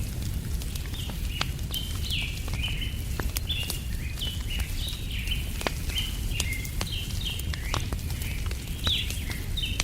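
Layered campfire-and-woodland ambience: small birds chirping busily in quick, short high notes, over a wood fire crackling with scattered sharp pops and a steady low rumble.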